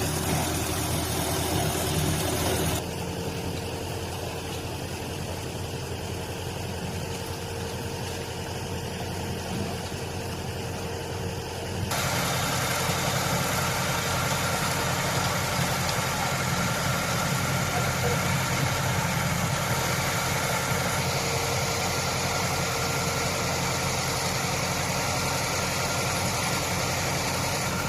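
A vehicle engine idling steadily. It drops in level suddenly about three seconds in and comes back up about twelve seconds in.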